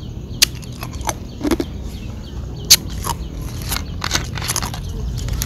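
Close-up chewing of papaya salad with raw vegetables: a string of separate crisp crunches and wet mouth clicks over a low steady background hum.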